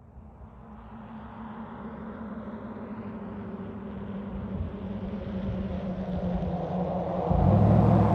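Pickup truck engine and exhaust running, growing steadily louder as it comes closer, with a step up in loudness near the end. This is most likely the 2020 Chevy Silverado Trail Boss with its new black quad exhaust tips.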